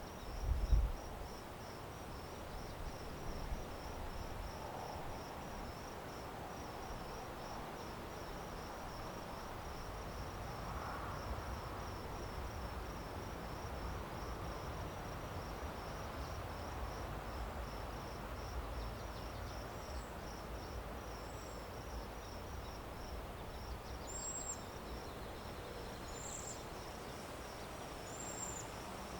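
Crickets chirping in a steady run of short high pulses, several a second, over a low background rush of outdoor noise. A low thump about a second in is the loudest sound, and a few short high chirps come near the end.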